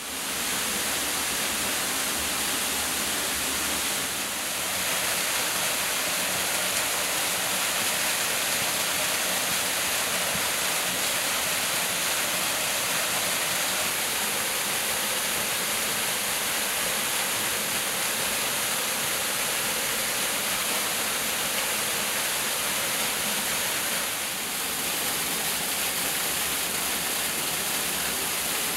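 A waterfall's water pouring down in a steady, loud rush, dipping slightly in loudness twice.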